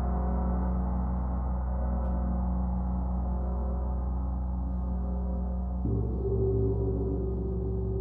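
Gong played in a sound bath: a dense, sustained wash of low ringing tones. A fresh swell of tones comes in a little before six seconds in.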